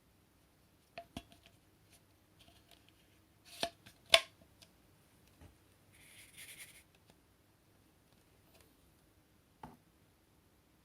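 Hard plastic parts of a Hitachi PV-BFH900 cordless stick vacuum being handled: a few sharp clicks, the two loudest about half a second apart near four seconds in, a brief scratchy rustle a couple of seconds later, and a single knock near the end.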